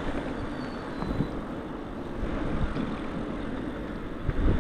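Steady wind and road noise from riding an e-bike: wind buffeting the microphone and tyres rolling on pavement.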